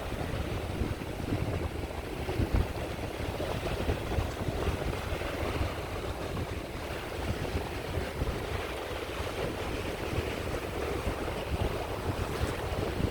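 Sea waves washing onto the shore in a steady wash of surf, with a gusty low rumble of wind buffeting the microphone.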